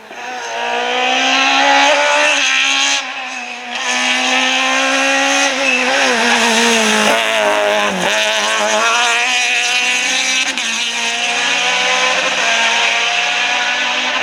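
Rally car engine at high revs, its pitch climbing and dropping as it goes through the gears, with a short lift off the throttle about three seconds in.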